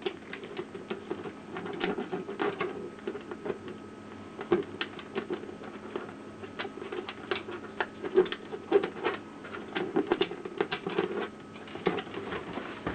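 Irregular light clicks and taps of plastic parts being handled: ink-supply tubing and cartridge parts being fitted into the side of a Canon Pixma inkjet printer, several clicks a second.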